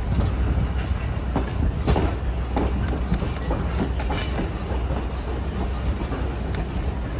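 Excursion passenger train rolling along the track: a steady low rumble with irregular clicks and knocks of the wheels passing over rail joints.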